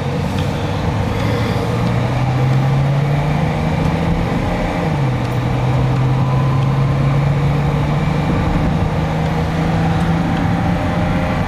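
A Mercedes-Benz M110 2.8-litre DOHC inline-six engine pulling a car under acceleration. Its pitch rises, drops sharply about five seconds in as the gearbox shifts up, then climbs steadily again, over steady road noise.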